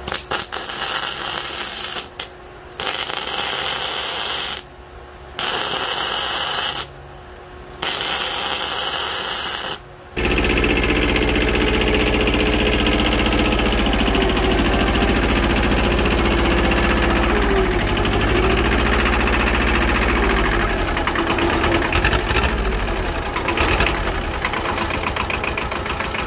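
Four bursts of electric arc-welding crackle, each one to two seconds long, as steel leaf-spring pieces are tack-welded. Then about ten seconds in, a loud machine starts and runs steadily with a rapid pulsing.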